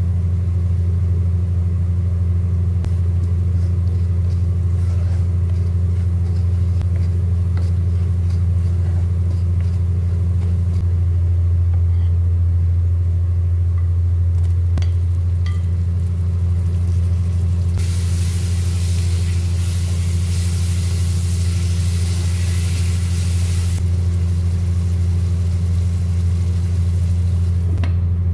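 A loud, steady low hum drones throughout. Over it a wooden spoon taps and scrapes in a non-stick pot of frying onions. A bit past halfway, a frying sizzle rises for about six seconds as diced tomatoes go into the hot pot.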